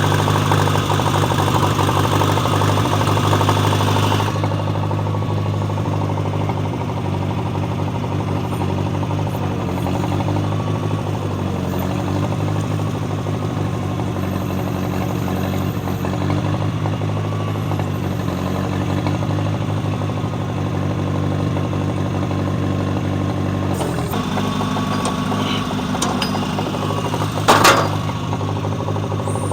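John Deere 1010 tractor's carburetted gasoline engine running steadily. About four seconds in the sound turns softer and thinner, and it grows brighter again near the end, with a brief loud noise a couple of seconds before the end.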